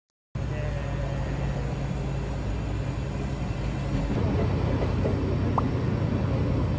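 Sagano Romantic Train running, heard from its open-air car: a loud, steady rumble of the train in motion, starting just after a brief silence and getting louder about four seconds in as the train runs into a tunnel.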